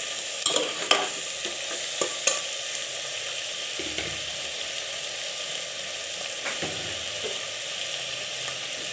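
Vegetables frying in oil in an open aluminium pressure cooker, a steady sizzle. A few sharp metal knocks in the first couple of seconds as the slotted spoon stirring them hits the cooker.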